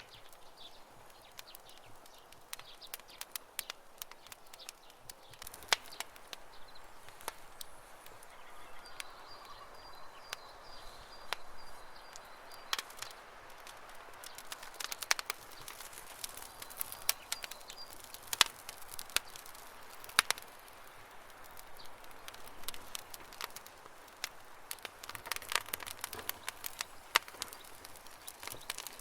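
Wood campfire crackling: irregular sharp pops and snaps over a soft steady hiss. Birds chirp faintly in the background.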